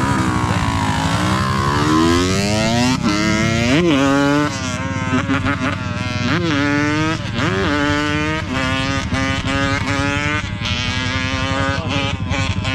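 Dirt bike engine revving hard: the pitch climbs steadily over the first few seconds, then falls and rises again several times as the throttle is chopped and reopened, as when a rider holds the bike up in a wheelie.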